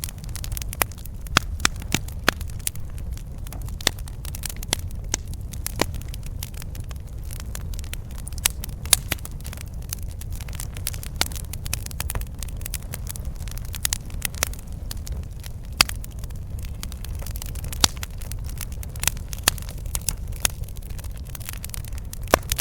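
Campfire burning, its wood crackling and popping with irregular sharp snaps, several a second at times, over a steady low rumble.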